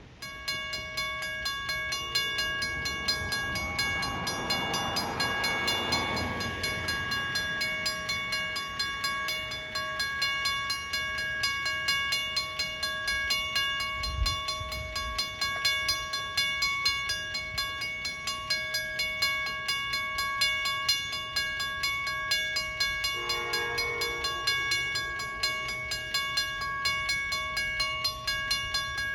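Railroad crossing warning bell ringing rapidly and steadily, with an Amtrak train's horn sounding briefly about two seconds in and again about 23 seconds in.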